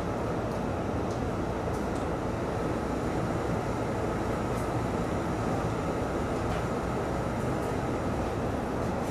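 JR East E531-series electric train running along the track, a steady rumble of wheels on rail heard from inside the front car, with a faint steady whine above it.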